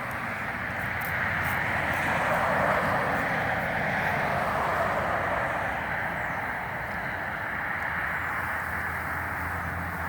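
Steady, dense buzzing of a mass of honeybees pouring out of a package into a new hive.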